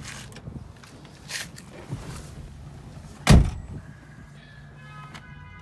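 A car door shut with one loud thud about three seconds in, after a few lighter knocks and rustles. Near the end a steady, evenly pitched tone starts up.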